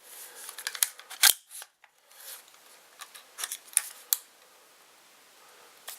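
Hands-on handling of small hard objects: a series of sharp clicks and snips, loudest about a second in and again around three to four seconds in, with light rustling between.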